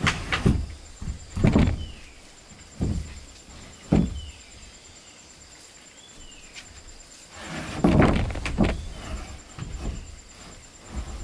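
Irregular wooden knocks and thuds, a few single strikes with a louder cluster about eight seconds in, typical of timber boards being handled and knocked into place for a floor.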